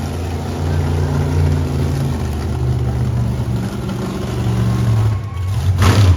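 Monster truck engine running at low revs, its deep tone shifting slightly in pitch. A short, loud sudden burst comes near the end.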